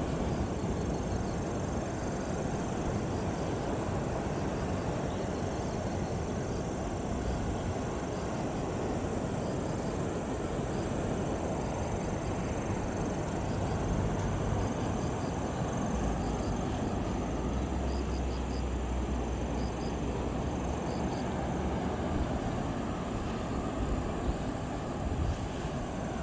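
Steady outdoor rumble of wind and sea noise, even in level throughout, with a few faint, short high chirps in the middle.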